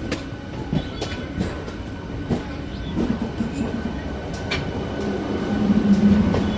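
Train running on rails: a steady rumble with irregular clicks and knocks of the wheels, and a low hum that swells near the end.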